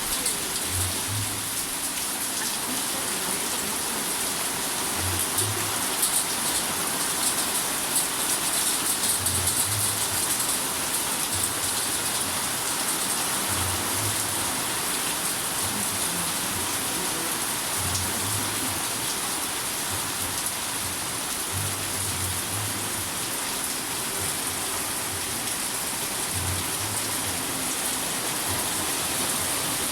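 Steady rain with many individual raindrops ticking, and soft low thuds coming at irregular intervals of a second or two.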